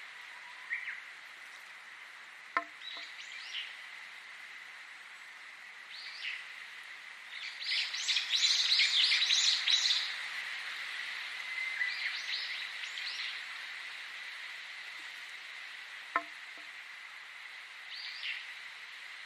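Songbirds chirping over a steady background hiss, with a dense burst of rapid, high chirps about eight seconds in. Two sharp clicks, one about two and a half seconds in and one near the end.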